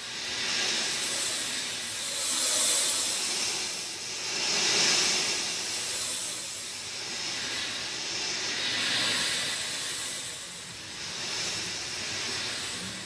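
Rain falling steadily, a dense hiss that swells and eases in waves every two seconds or so.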